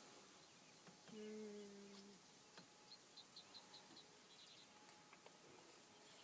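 Near silence. About a second in there is a faint steady hum lasting about a second, and later a quick run of faint high chirps.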